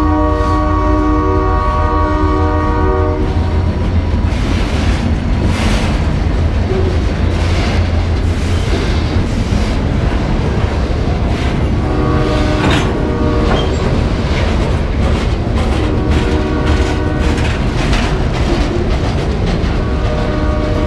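Freight train passing with its diesel locomotive's air horn sounding a chord of several notes, held for about three seconds at the start and blown again several times in the second half. Under it run a steady low rumble and the clatter of wheels over the rails.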